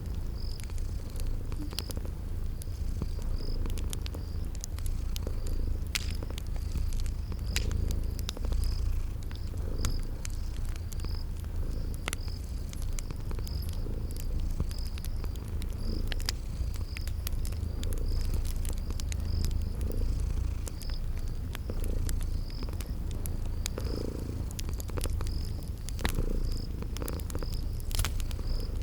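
A cat purring steadily in a low rumble, with a wood fire crackling in scattered sharp pops and a cricket chirping evenly about one and a half times a second.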